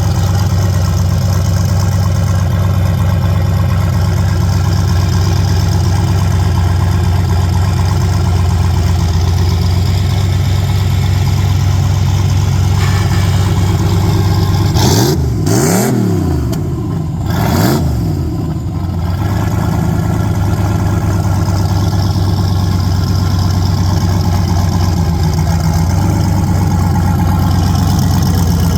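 Turbocharged V8 of an OBS GMC pickup idling with a steady rumble, blipped twice about halfway through, the pitch sweeping up and back down each time before it settles back to idle.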